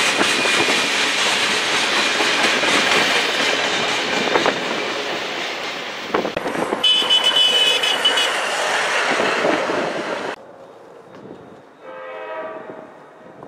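Freight train passing close by, its wheels and cars clattering on the rails for about ten seconds, with a brief high-pitched tone partway through. The sound then cuts off suddenly, and a train horn sounds faintly near the end.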